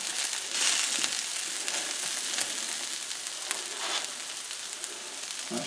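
Beef strips, onions and buttered hoagie buns sizzling on a flat griddle: a steady frying hiss, with a few faint clicks.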